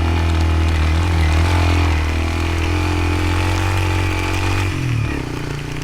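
Motorcycle engine running steadily under way, its revs dropping sharply about five seconds in.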